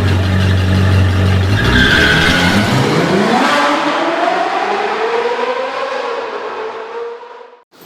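A car engine revving up, its pitch rising steadily over a few seconds, then fading and cutting off suddenly near the end.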